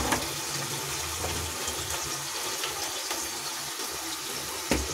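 Tomato, green chilli and chilli-powder masala sizzling steadily in hot ghee in a kadhai, with a short knock right at the start and another near the end.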